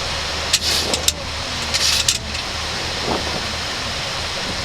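Steady rush of airflow and engine noise on a Boeing 737-800 flight deck in the climb after takeoff, over a low hum. Two short hissy bursts come through, about half a second and two seconds in.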